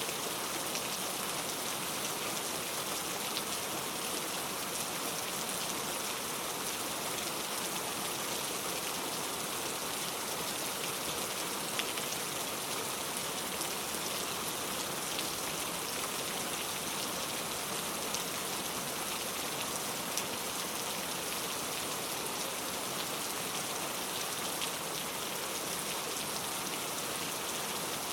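Steady rain falling, a constant hiss of heavy rain with scattered individual drops ticking on a surface, without thunder.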